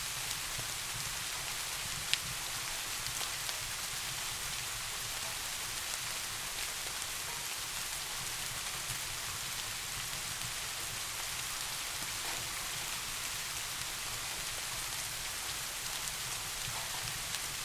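Steady rain falling, an even hiss with scattered drop ticks and one sharper click about two seconds in.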